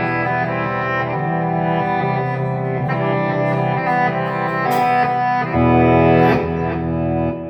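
PRS SE Hollowbody II electric guitar played clean through a Peavey Vypyr X2 amp's reverse effect: sustained chords with a bowed-string-like sound, changing chord about two seconds in and again about five and a half seconds in.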